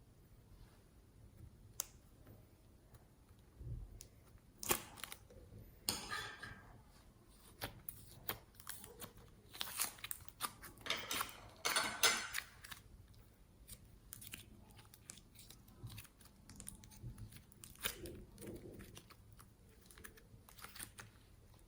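Slime being worked by hand: irregular sticky clicks, crackles and squelches, thickest and loudest in the middle stretch and sparser toward the end.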